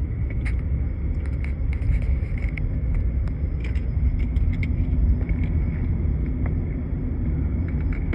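Diesel switcher locomotive rumbling low and steadily while working in a rail yard, with faint scattered clicks over it.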